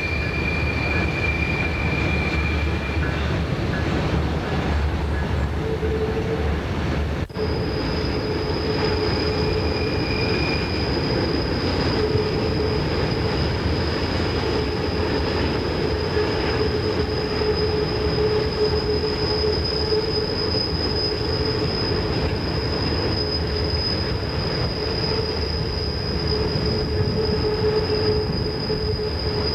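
A train rolling past with its steel wheels squealing against the rail in long, steady high tones over the rumble of the cars. A brief dropout about seven seconds in is followed by a new, higher steady squeal.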